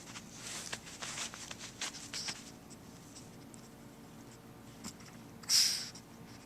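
Light scratching and rustling of a Chihuahua shifting about inside a soft fabric pet carrier, with a short, louder rustle about five and a half seconds in.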